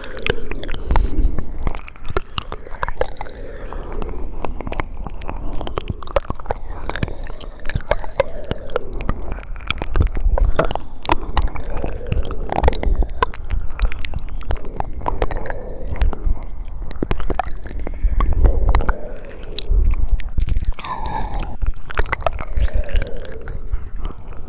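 ASMR mouth sounds close to the microphone: a dense, continuous run of wet clicks and smacks from lips and tongue.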